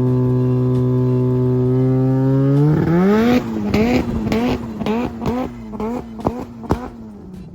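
Rotary engine of a swapped Subaru BRZ running loud at a steady high pitch. About three seconds in, the revs rise, then it blips up and down repeatedly with sharp exhaust pops and cracks, getting fainter.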